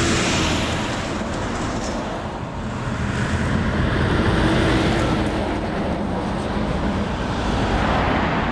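Highway traffic rushing past, the noise swelling and fading as vehicles go by.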